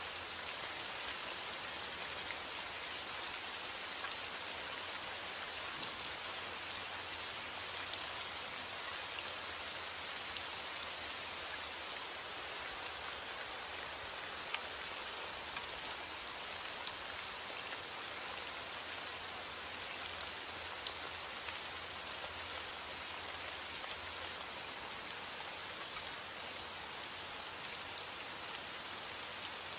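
Heavy rain falling steadily: a dense, even hiss with many individual drops ticking on a surface.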